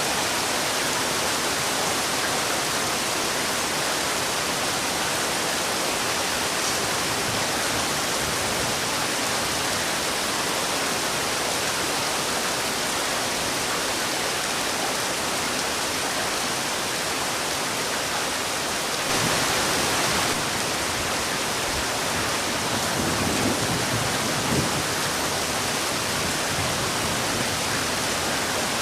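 Heavy rain falling, a steady even hiss, with a brief louder gust of it about two-thirds of the way through.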